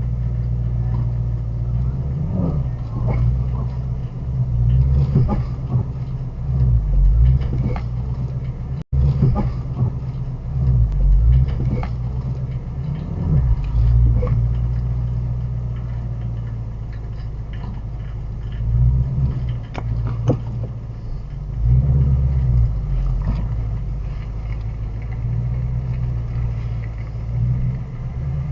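Shelby GT350's flat-plane-crank V8 running, its low rumble swelling and easing repeatedly, with an instant dropout of the sound about nine seconds in.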